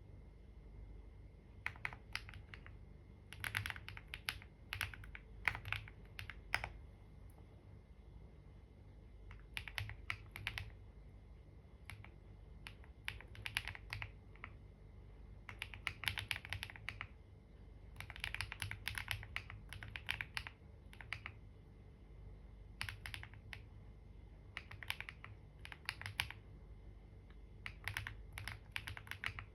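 Computer keyboard typing in bursts of quick keystrokes, with pauses of a second or two between bursts.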